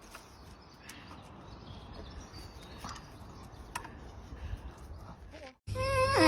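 Faint background noise with a few light taps. Near the end, after a sudden cut, a dog starts a loud howling whine whose pitch wavers up and down.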